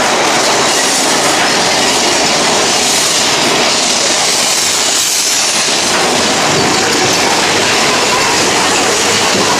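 Big Thunder Mountain Railroad mine-train roller coaster running along its track: a steady, loud rush of wheel and track noise.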